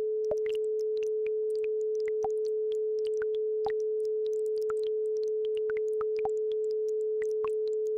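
A steady pure tone at 432 Hz, the base frequency of an isochronic-tone track, running unchanged. Over it, faint, irregular little plinks of a babbling brook.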